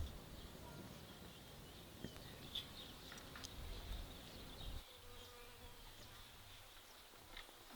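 Faint buzzing of flying insects, with a few short high chirps.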